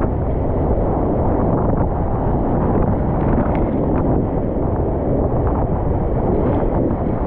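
Steady, loud rush of wind buffeting a kayaker's GoPro microphone mixed with moving river water.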